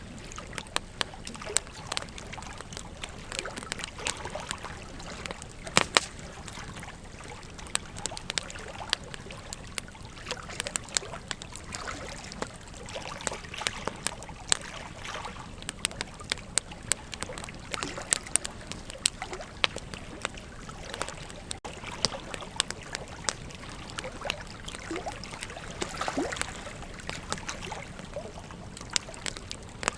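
Wood fire crackling, with irregular sharp pops and snaps, the loudest about six seconds in, over the steady rush of a river.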